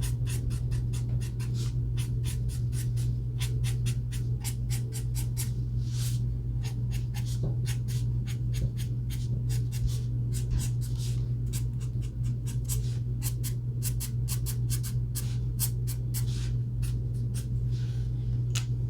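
Alcohol marker tip scratching across paper in many quick short strokes, several a second, over a steady low hum.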